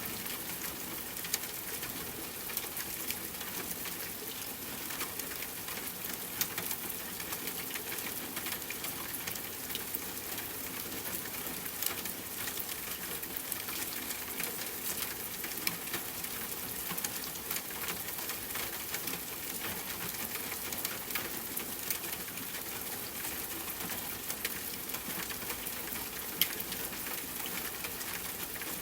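Steady rain with a campfire crackling, with a handful of sharper, louder pops scattered through.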